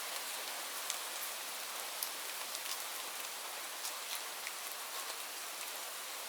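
Steady rainfall: an even hiss of rain with scattered individual drops ticking sharply against a surface.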